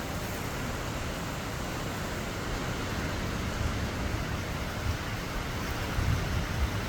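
Heavy rain pouring steadily, with wind gusting against the microphone, a little stronger about six seconds in.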